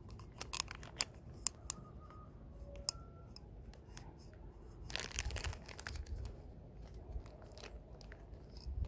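Hand-work noises on the oil filter housing and its seals: several sharp clicks and taps, then a rustling scrape about five seconds in.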